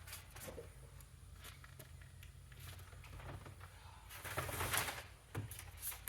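Quiet handling noises: scattered light clicks and knocks, and a louder rustle about four seconds in, over a low steady hum.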